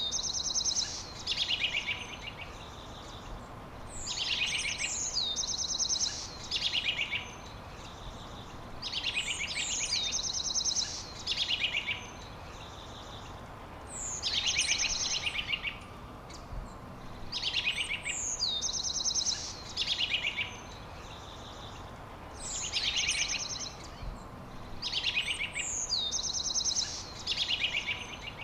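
A songbird sings the same short song over and over, about every three to four seconds. Each song is a high falling note followed by fast trills, over a steady background hiss.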